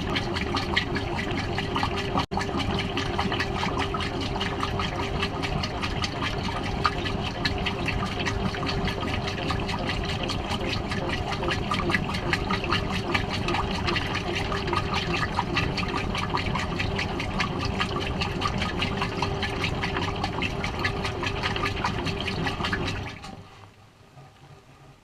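Water rushing and splashing in a Maytag washing machine's tub, heard from inside the tub, over a steady hum from the machine. It cuts off sharply near the end, leaving a few faint ticks.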